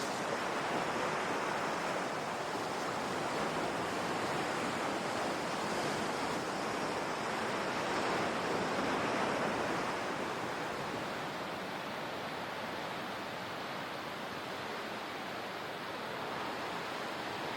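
Ocean surf washing ashore in a continuous rush, swelling twice and easing to a steadier, slightly softer wash for the last several seconds.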